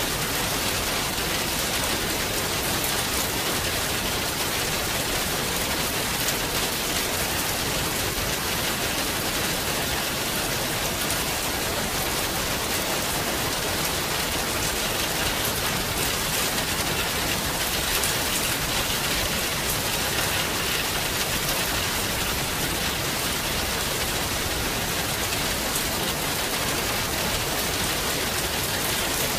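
Steady rain falling: an even hiss with fine taps of drops, holding the same level throughout.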